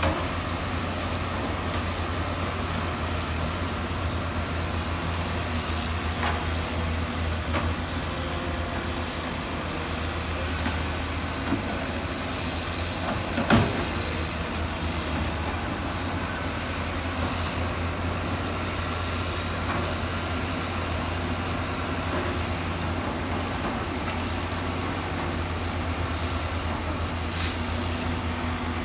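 Heavy diesel construction machinery running steadily with a low, even engine rumble. A single sharp clank sounds about halfway through.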